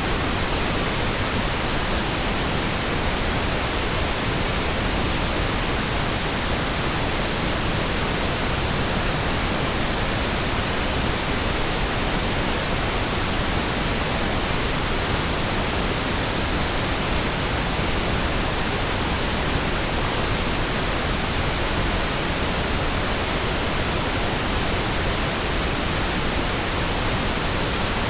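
Synthetic pink noise: an even, continuous hiss that stays steady with no changes.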